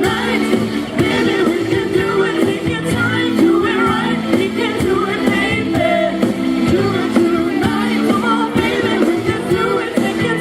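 A live band playing a song with a singer's voice over it; the music is loud and steady throughout.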